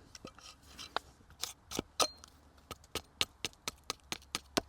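Hand axe by Hans Karlsson hewing a wooden coffee scoop blank: a quick run of sharp chopping strikes, about three to four a second, the loudest about two seconds in. The axe is roughing the blank to shape.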